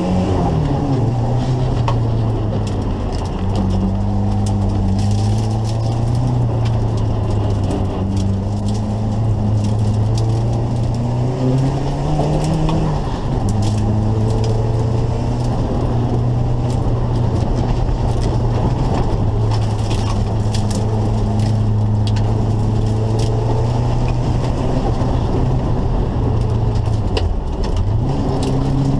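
Turbocharged Volvo B23 2.3-litre four-cylinder engine of a 1980 Volvo 242, heard from inside the cabin on an autocross run. It holds steady revs for long stretches, with brief rises and dips in pitch near the start, about twelve seconds in and near the end. Scattered clicks and crackle sit over it.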